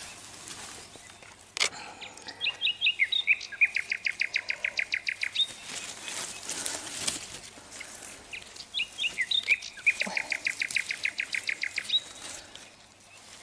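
A songbird sings twice, each song a few opening notes followed by a fast trill of repeated notes that ends on a single higher note. Leaves rustle in between, and there is a sharp click just before the first song.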